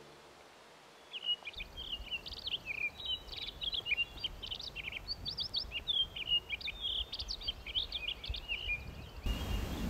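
Small birds chirping and singing in quick, varied phrases after a second or so of quiet. A louder low rushing noise comes in near the end.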